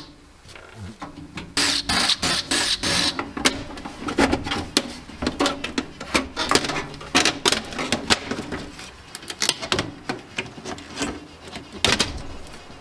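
Old desktop computer being taken apart by hand: a busy run of irregular clicks, knocks and rattles from tools and metal case parts.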